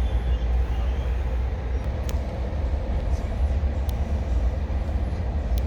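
Steady low rumble of an Amtrak Pacific Surfliner passenger car running along the track, heard from inside the car, with a few faint sharp clicks.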